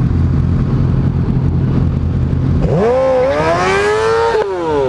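Motorcycle engine running with a steady low drone, then revving up about two and a half seconds in, its pitch climbing for over a second before dropping sharply near the end.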